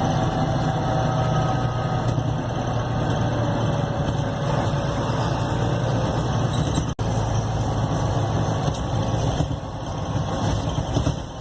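Bus engine running steadily, heard from inside the bus as a constant low hum, cutting out for an instant about seven seconds in.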